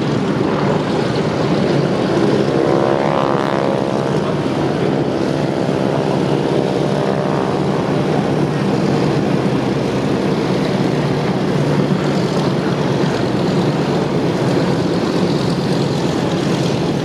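Radial piston engines and propellers of Douglas DC-3 Dakota / C-47 aircraft running loud and steady. There is a sweeping shift in tone about two to four seconds in.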